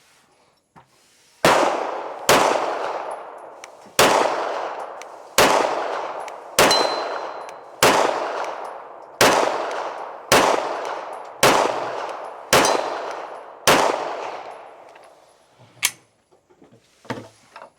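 Eleven gunshots fired one after another, about one every second or so, each with a long fading echo; a few faint clicks follow near the end.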